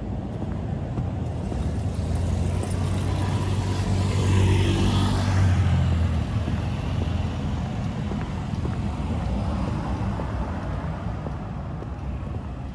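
A car driving past, its engine and tyre noise swelling to a peak about five seconds in and then fading away.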